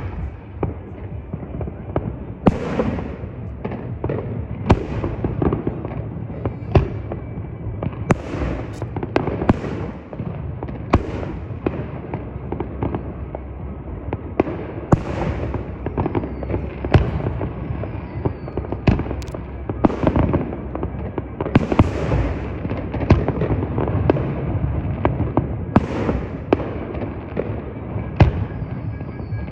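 Fireworks going off in quick, irregular succession: sharp bangs and crackles one after another over a continuous low rumble.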